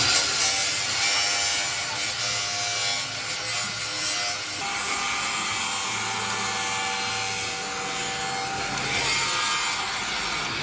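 Steady rasping, hissing work noise with faint steady tones beneath. It turns brighter and hissier from about four and a half seconds in until about nine seconds in.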